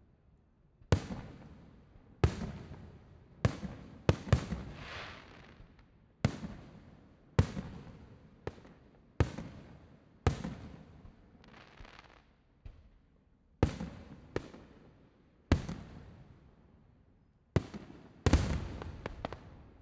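Fireworks display: aerial shells bursting in a steady run of sharp bangs, more than a dozen of them, roughly one every second or so. Each bang is followed by a rolling echo that fades away.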